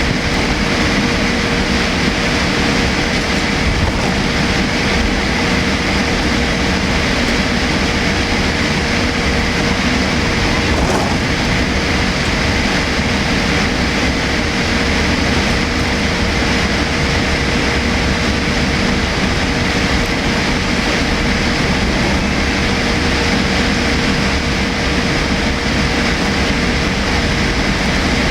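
Steady cabin noise inside an ANA Boeing 787-8 airliner: an even rush of air and engine drone with a constant hum, unchanging throughout.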